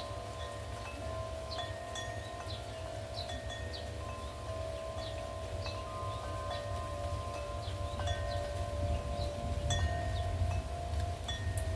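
Metal wind chimes ringing in gusty wind: tubes are struck again and again, and their tones overlap and hold. Wind rumbles on the microphone underneath, a little stronger in the second half.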